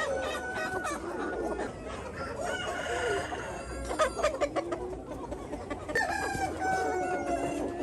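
A flock of chickens clucking, with a rooster crowing in long drawn-out notes near the end. A quick run of sharp clicks comes about halfway through.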